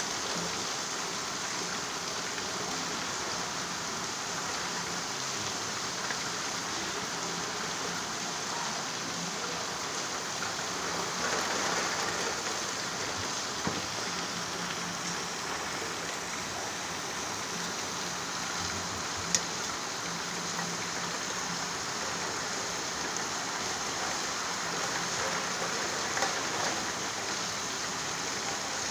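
Steady rain falling, an even hiss with a few sharp ticks of drops; the loudest tick comes about two-thirds of the way through.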